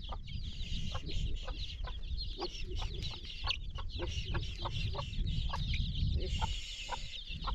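Chickens clucking in short repeated calls, about two to three a second, with high chirping, over a low steady rumble.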